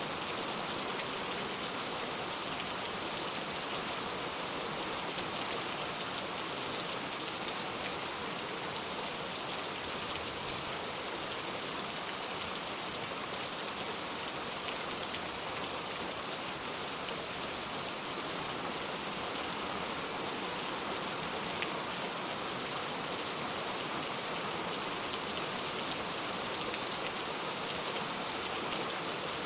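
Steady rain falling on the ground, an even hiss of many drops with a few distinct drop ticks.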